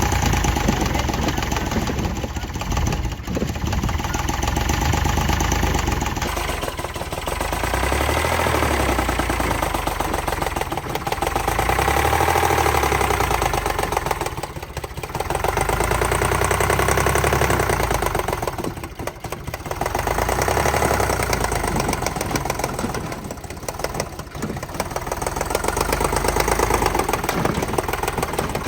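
Tractor diesel engine running, its sound swelling and easing roughly every four seconds.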